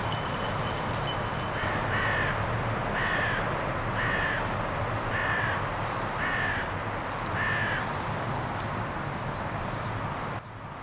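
A bird's harsh call, repeated six times about once a second. A high ringing jingle sounds in the first second.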